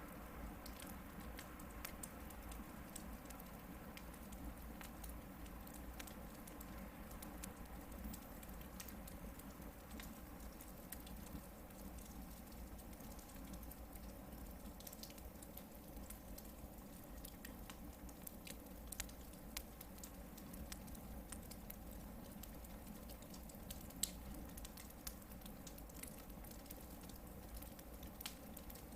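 Campfire of hardwood logs burning, with frequent small crackles and pops over a low hiss, and a couple of sharper pops in the second half.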